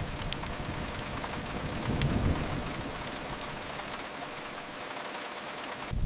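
Steady rain hiss against a window, with a low rumble that swells about two seconds in and then fades. A couple of fireplace crackles snap near the start.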